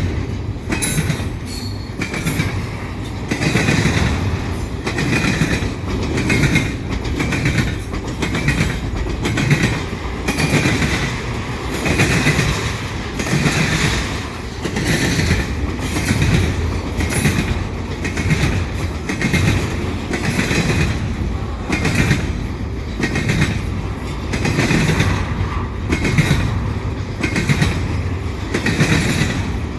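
Canadian Pacific train's cars rolling past at speed, wheels clacking over the rail joints in a steady repeating rhythm.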